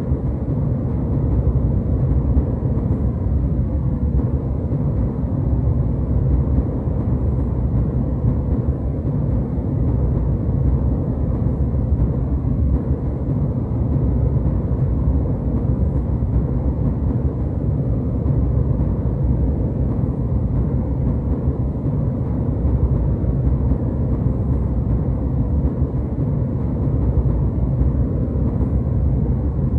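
Jetliner cabin noise: a steady, deep rumble of engines and airflow, with no changes.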